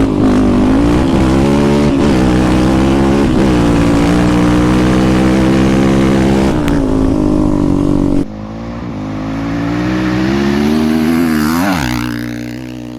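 Off-road quad or dirt bike engine at high revs, its pitch rising and dipping with the throttle. About eight seconds in it cuts to a quieter engine note that climbs and then drops sharply near the end.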